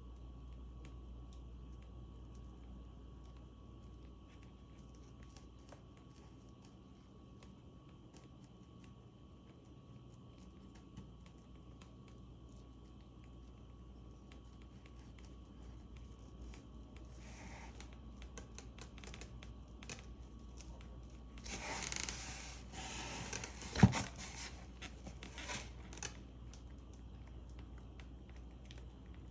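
Faint handling noise over a steady low room hum: scattered small clicks and scratches, then, about three-quarters of the way through, a few seconds of crinkling, tearing-like rustle with a single sharp knock in the middle of it.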